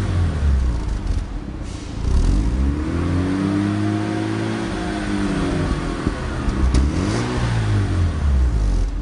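1993 Mazda RX-7's twin-turbo 13B rotary engine being revved while stationary: one long rev that rises and falls a couple of seconds in, then a few shorter blips near the end.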